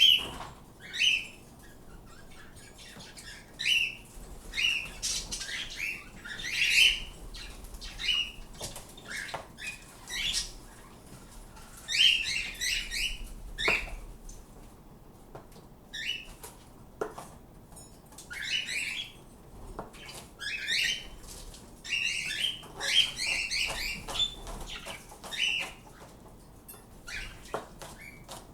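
Pet birds calling, a quick run of short, rasping chirps and squawks repeated over and over, with a few sharp knocks in between.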